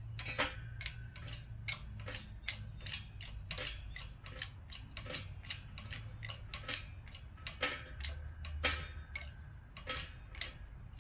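Irregular metallic clicks and taps, several a second, with a short ringing clink twice: small steel parts, a new needle-bearing trunnion and an LS roller rocker arm, being handled and lined up in a press.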